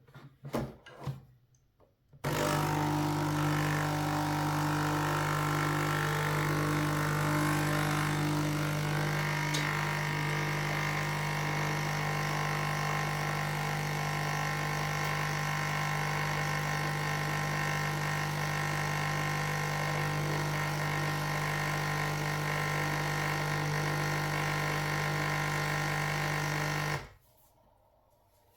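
Nespresso capsule coffee machine brewing: a few short knocks, then its vibratory pump buzzes steadily with a low hum for about 25 seconds and cuts off suddenly near the end.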